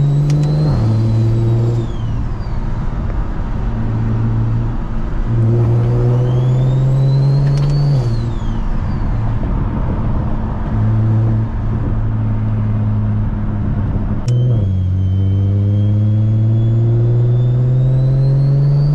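A single-turbo BMW 335is's N54 3.0-litre inline-six pulls through the gears. The engine note climbs and drops at each shift, and a high turbo whistle rises with each pull and falls away when the throttle lifts: once around six to eight seconds in, then again from about fifteen seconds to the end, after a sharp click.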